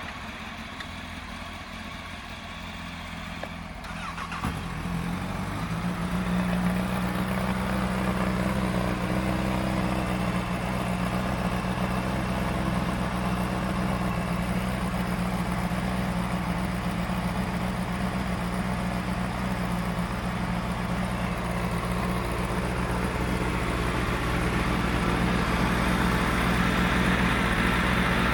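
Honda Fireblade's inline-four engine, breathing through an aftermarket Yoshimura exhaust, starting about four seconds in and then idling steadily, a little louder near the end.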